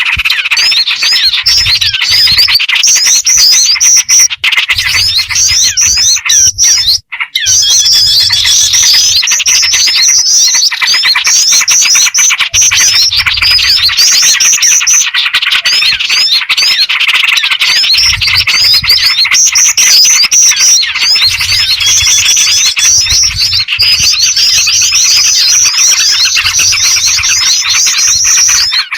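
Bird-trapping lure recording: a dense, continuous chorus of rapid high chirps and calls layering a black-winged flycatcher-shrike (jingjing batu) with small songbirds and a yellow-vented bulbul (trucukan). It breaks off briefly about seven seconds in, like an edit in the loop.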